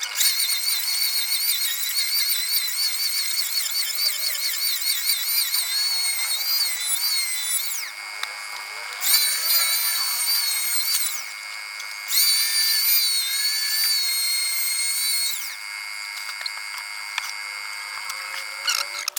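A high-speed electric power tool cutting wood in three runs, a long one and then two shorter ones; its high whine wavers in pitch as the load changes. A steady high hum continues underneath throughout.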